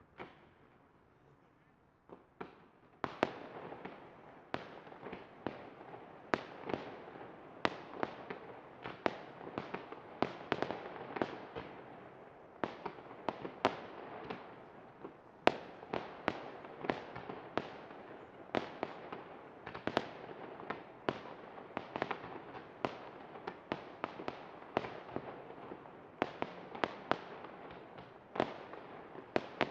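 Fireworks display: after a few seconds of quiet with a couple of pops, a rapid, continuous run of sharp bangs from bursting shells over a steady crackle.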